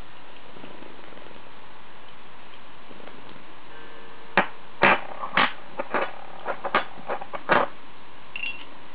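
Pieces of a Hanayama cast metal puzzle clicking and clinking against each other as it is handled, about a dozen sharp clicks in a burst of three seconds starting about halfway in, over a steady hiss.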